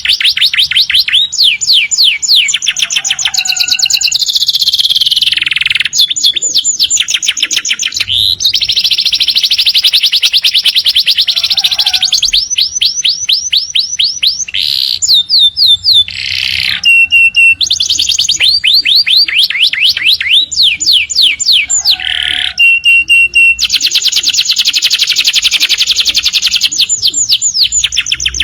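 Domestic canary singing continuously in long rapid trills of quick sweeping notes, broken by short held whistled notes and rolls.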